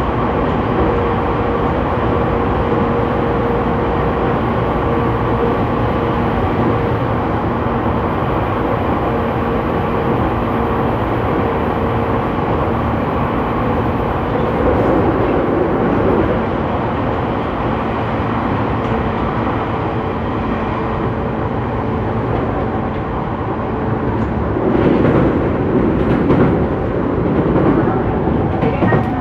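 JR E231 series 800 subseries commuter train heard from above the traction motors of a motor car while running between stations: a continuous rumble of wheels on rail with a steady motor hum. The hum drops away about two thirds of the way through, and the rumble swells louder about halfway and again near the end.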